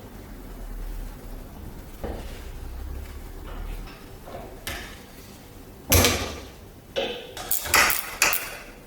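Metal parts of an antique hand-crank grinder being handled: several sharp clanks and clatters in the second half, with a faint low hum before them.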